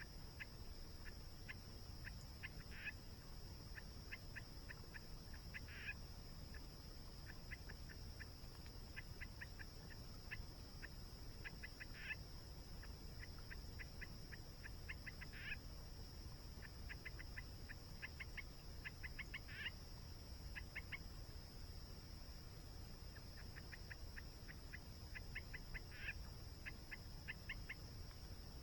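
Bird calls: quick runs of short chirps, a louder call every few seconds, over a steady high insect drone and a low steady rush of the waterfall.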